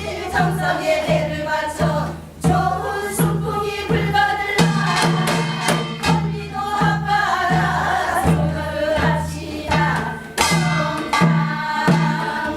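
Korean binari, a folk blessing song: voices singing over a steady beat of drum strokes, about two a second.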